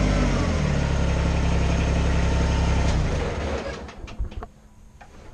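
Kubota BX25's three-cylinder diesel engine idling, dropping to a lower speed under half a second in. It is then shut off about three seconds in and runs down to a stop. A few light clicks and knocks follow.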